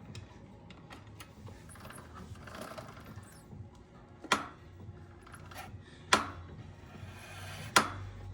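Hand tools and metal parts being handled while fitting a motorcycle's rear wheel hardware: light scattered metallic ticks and rattles, with three sharp metal knocks about two seconds apart in the second half.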